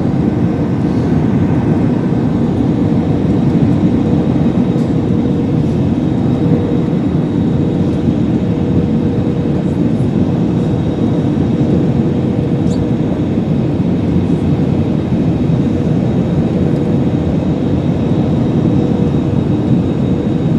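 Steady, unbroken drone of an airliner in flight, engine and airflow noise heard inside the cabin, with a thin steady hum running through it.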